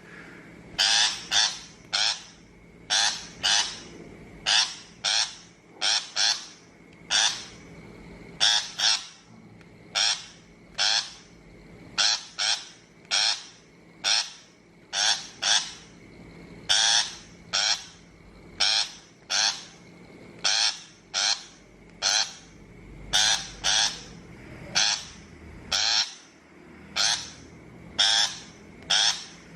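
Shrike giving harsh, grating calls in quick runs of two or three, repeated about once a second.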